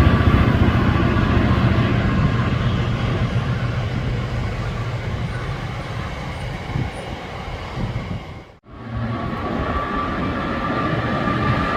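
Diesel-hauled train running past, its rumble slowly fading, cut off by a brief dropout about eight and a half seconds in, then train running noise again with a faint steady whine.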